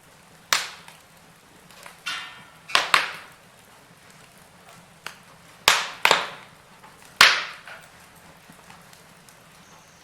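Wood fire in a fireplace crackling, with about eight sharp, loud pops from the burning logs, some single and some in quick pairs, over a low steady hiss.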